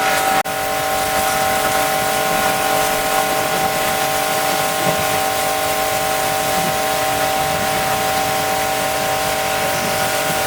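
Pressure washer running steadily, a whining pump motor under the hiss of the water jet, with a very brief cut-out about half a second in.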